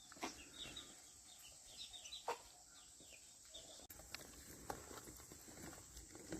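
Faint, quick high bird chirps, many short falling notes, dying away a little after halfway, with a few soft knocks in between.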